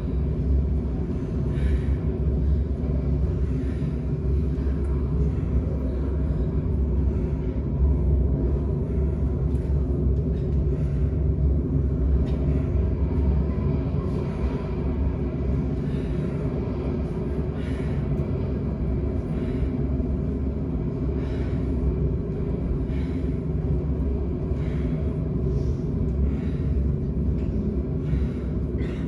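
A steady low rumble throughout, with faint short knocks scattered through it.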